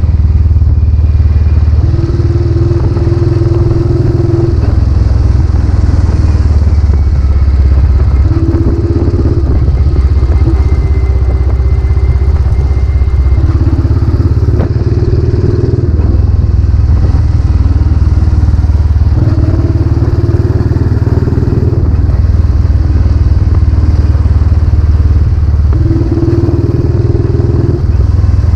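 Royal Enfield Classic 500's single-cylinder engine running under way through a new aftermarket silencer, loud and steady, its exhaust note shifting every few seconds.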